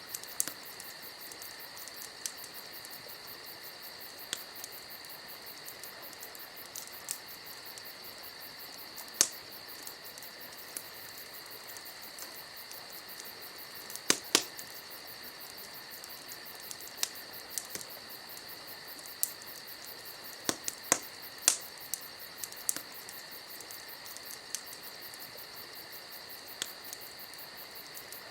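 A wood campfire crackling, with irregular sharp pops and snaps, the loudest at about 9, 14 and 21 seconds in. Crickets trill steadily underneath.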